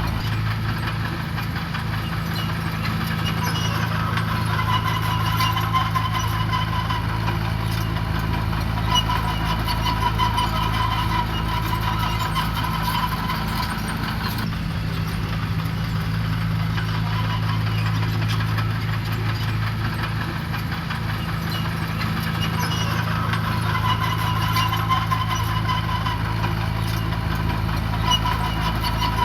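Diesel engine of heavy earthmoving machinery running steadily, with a higher whine that swells and fades every few seconds.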